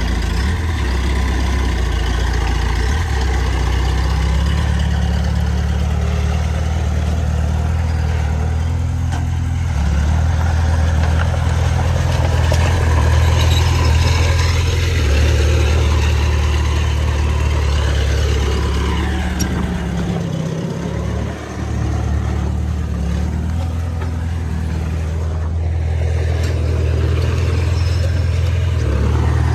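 Heavy diesel engine of earthmoving machinery running steadily. Its pitch shifts up and down now and then, and it dips briefly about two-thirds of the way through.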